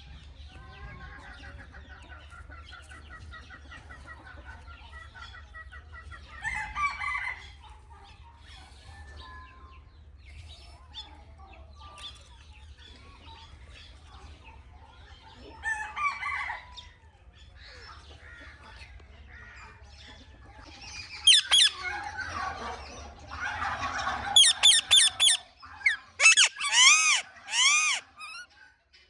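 Indian ringneck parakeet calling: scattered chirps and warbling chatter, then a run of loud, sharp, repeated screeches over the last eight seconds.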